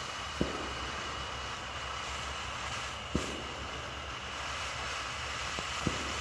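Three sharp firework pops, spaced roughly two and a half to three seconds apart, over a steady hissing rumble.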